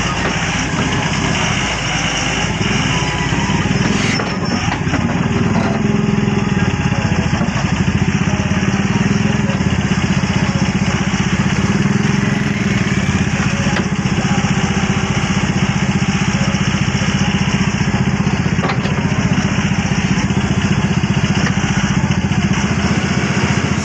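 Doosan DX140 excavator's diesel engine running steadily while the machine works.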